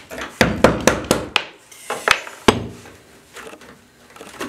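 Hammer and chisel chipping at old tile and thinset mortar: a quick run of about five sharp knocks, then two single knocks about two seconds in, followed by lighter scraping.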